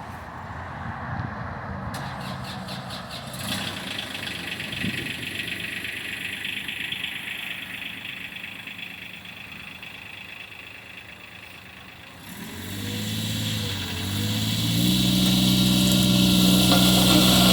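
Bomag BW 120 AD-5 tandem roller's diesel engine starting about twelve seconds in, then settling into a steady idle that grows louder. Before that there are lighter mechanical clicks and rattles.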